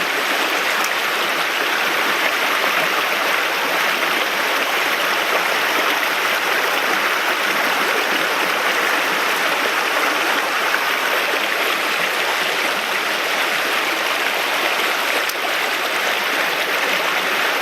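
Mountain stream rushing over rocks, a steady loud flow of water.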